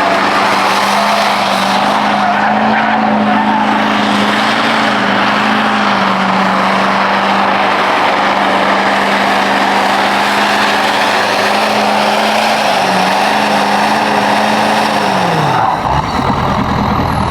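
Diesel truck doing a burnout: the engine is held at steady high revs while the spinning tires squeal over it. Near the end the revs drop off.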